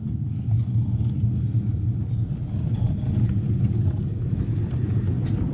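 A 7 1/4 inch gauge miniature railway train running along its track, giving a steady low rumble with a few faint clicks.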